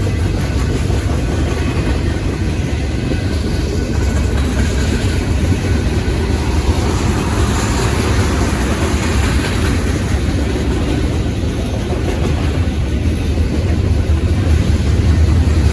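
Union Pacific manifest freight train rolling past at a grade crossing: a steady rumble of wheels and cars on the rails, with some clattering. The low rumble grows louder near the end.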